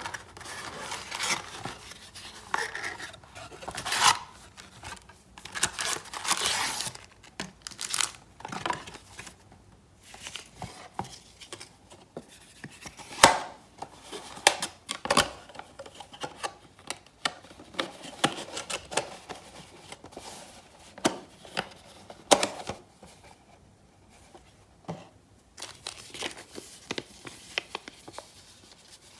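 Trading card box packaging and wrappers being torn open and crinkled by hand, in irregular rustling bursts with occasional sharp clicks.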